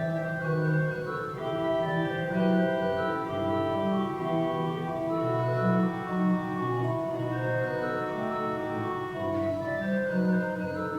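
Organ playing slow, sustained chords over a bass line that steps from note to note every second or so.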